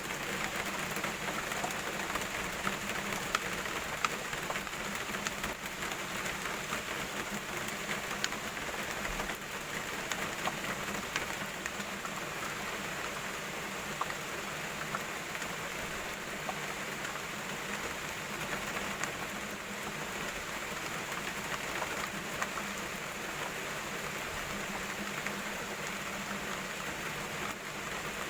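Steady rain falling, a dense patter of small drop ticks over a constant hiss.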